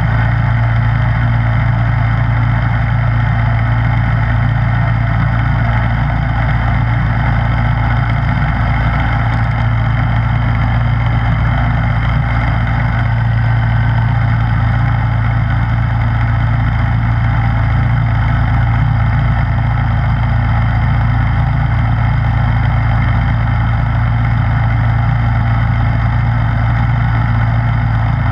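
Snowblower running steadily with an even engine hum and a constant rushing noise over it, with no change in speed.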